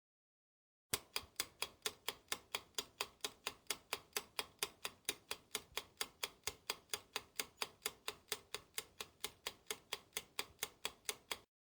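Ticking clock sound effect for a quiz countdown timer: evenly spaced sharp ticks, about four a second, starting about a second in and cutting off suddenly near the end.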